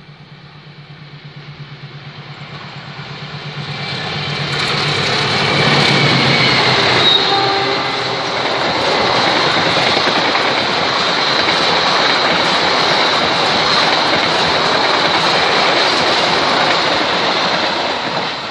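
A diesel-hauled Indonesian passenger train passing close at speed: a low pulsing locomotive hum swells as it approaches, then the coaches rush past with dense wheel-and-rail noise for about twelve seconds before it starts to fade near the end.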